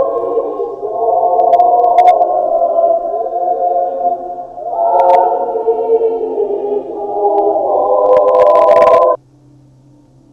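Loud, distorted choir-like music: sustained stacked chords that shift a few times, with crackling clicks, cutting off suddenly about nine seconds in and leaving a faint low hum.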